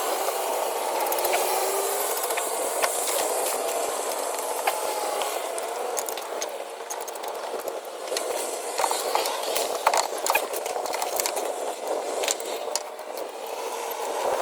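Hand tools clicking, rattling and scraping against metal while the starter bolts are worked loose, the clicks coming thicker in the second half, over a steady hiss.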